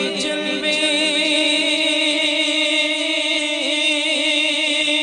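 Unaccompanied naat singing: a voice holds one long, gently wavering note with no words.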